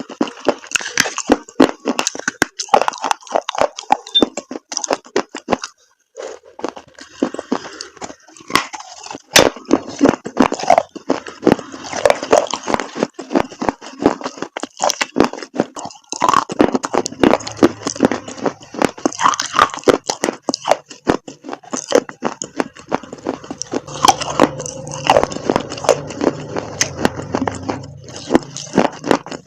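Dried chalk paste crunching close to the microphone: a dense run of crisp crackles and snaps, with a brief pause about six seconds in.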